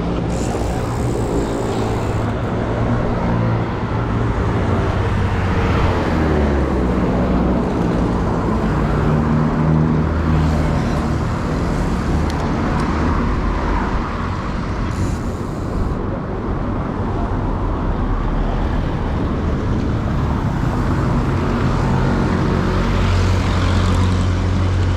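Road traffic: motor vehicle engines running and passing, with pitch rising and falling, over a steady roadway noise.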